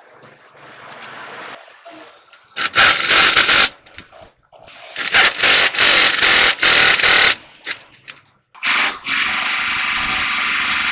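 Air tool at work: two bursts of fast, even rattling hammering, typical of a pneumatic impact wrench running bolts during a clutch replacement. From about three-quarters of the way in, a steady loud air hiss with a faint whine follows.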